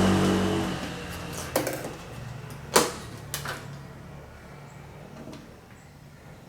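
A passing vehicle's engine fades away, then a few scattered sharp knocks and clicks follow, the loudest about three seconds in.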